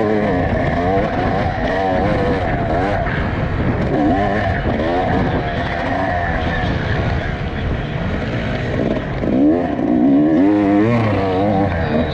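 Off-road dirt bike engine being ridden hard, its revs rising and falling again and again as the throttle is worked.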